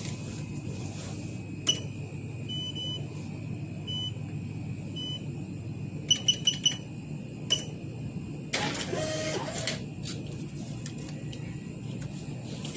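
Short high electronic beeps from a shop till's keys being pressed as a purchase is rung up, about a dozen in all, several in quick succession about six seconds in, over a steady low hum of background noise.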